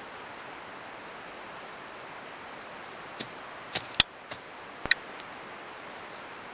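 Steady hiss with about six sharp clicks or snaps in quick succession, the loudest about four seconds in.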